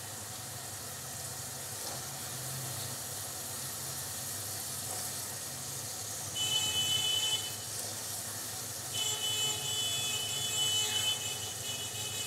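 Mutton and masala frying in oil in an open pot, a steady sizzling hiss, as sliced carrots are tipped in. Twice, about six seconds in and again about nine seconds in, a high tonal sound like a horn sounds over it for about a second each time.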